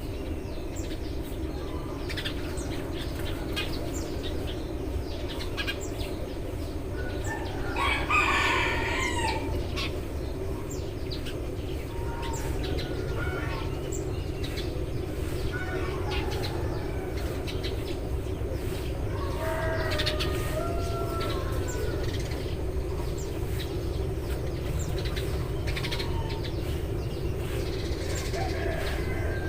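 Eurasian tree sparrows chirping repeatedly in short high notes. A louder, longer bird call cuts in about eight seconds in and again around twenty seconds, over a steady low background hum.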